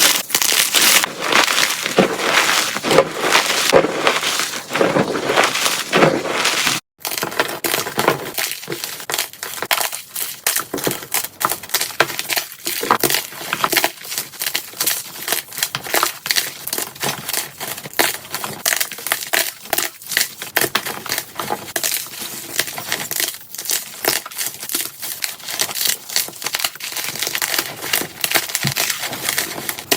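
Blocks of gym chalk crushed by hand, played at double speed: dense, fast crunching and crumbling, with a brief dropout about seven seconds in.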